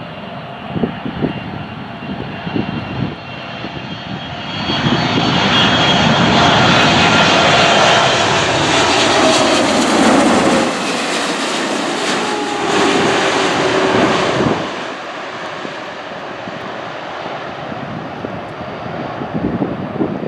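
Jet airliner passing low overhead: its engine noise swells about four seconds in, with a whine that falls in pitch as it goes by, then drops back to a lower rumble after about fourteen seconds. Wind buffets the microphone in the first few seconds.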